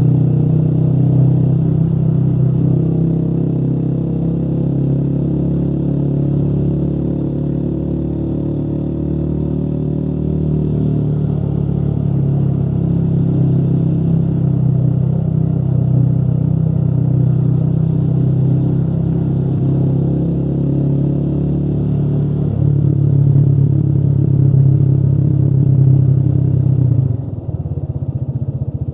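Motorcycle engine running steadily under way. Its note shifts about three-quarters of the way through, and it drops in level near the end.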